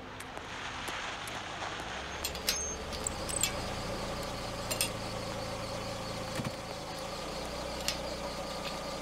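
A Mercedes-Benz C180 sedan's engine running at low speed as the car pulls up and idles, a steady low hum. A few light clicks and clinks sound over it.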